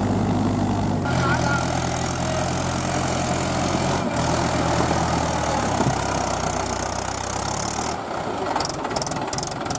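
Diesel tractor engine running at a steady speed, its note shifting slightly a couple of times. About eight seconds in, the engine note gives way to an irregular pulsing sound.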